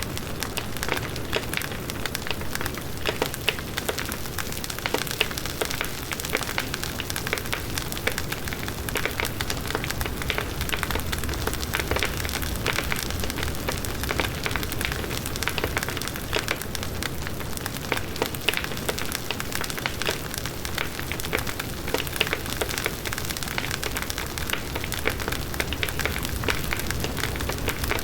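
Large bonfire burning: wood crackling and popping continuously in many small sharp snaps over the low, steady rush of the flames.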